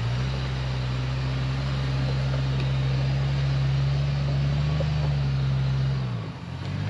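An off-road vehicle's engine running at low, steady revs, its pitch rising slightly midway and dipping briefly near the end before picking up again.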